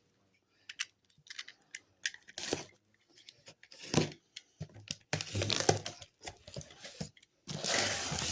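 Cardboard box packaging and bubble wrap being handled while unpacking: scattered clicks and rustles, then steadier crinkling and tearing of the wrap from about five seconds in.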